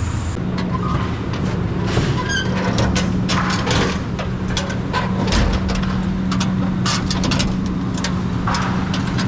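A vehicle engine running steadily with a constant low hum, with many scattered clicks and knocks over it.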